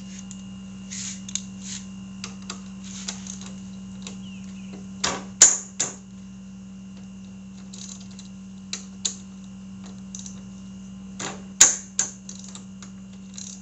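Hand tools clicking and clanking on metal as the bolts of a motorcycle's front brake caliper are loosened, with scattered light clicks and two louder clusters of knocks, about five seconds in and again near the end.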